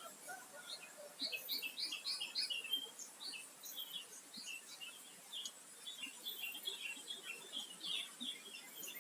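Small birds chirping: quick runs of short, high notes, one cluster about a second in and another past the middle.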